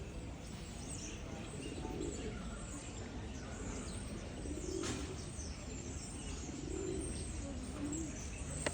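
Feral pigeons cooing, several soft low coos a second or two apart, with small birds chirping higher up and two sharp clicks.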